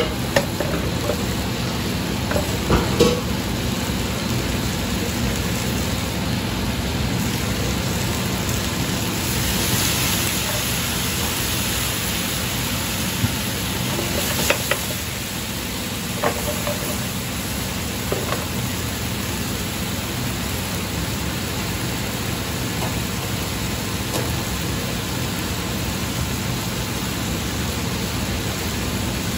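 Chicken thigh pieces sizzling steadily in hot frying pans, with a few sharp knocks and pops, the loudest about three seconds in.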